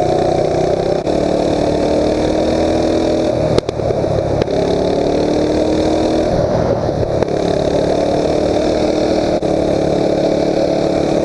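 Mini bike's small single-cylinder engine running as the bike is ridden, its revs climbing and easing off several times. A sharp click comes about three and a half seconds in.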